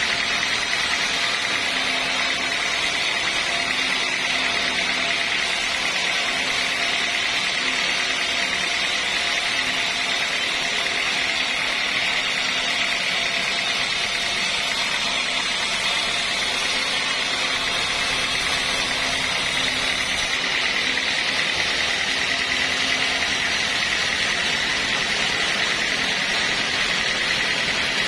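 Sawmill machinery running steadily, a constant loud mechanical drone with a high whine.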